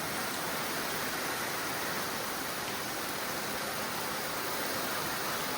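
Garden hose spraying water onto a car's bodywork, a steady rushing hiss, rinsing off grime already loosened with degreaser and brush.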